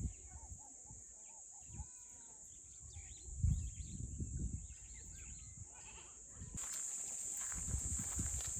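Short animal calls, with low rumbling on the microphone about halfway through and a steady hiss coming in about three-quarters of the way in.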